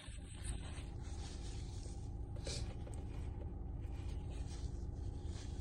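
Steady low rumble of a car idling, heard from inside the cabin, with a brief breath noise about two and a half seconds in.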